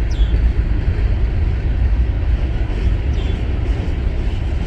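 Freight train rolling by, a steady low rumble with rail noise, with two faint short high chirps, one near the start and one about three seconds in.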